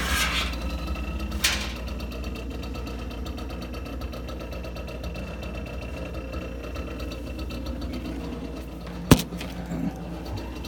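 GE refrigerator compressor running loudly, with a steady low hum and a fast, even rattle, while the unit is still cooling well. A click comes about a second and a half in and a sharper, louder knock about nine seconds in.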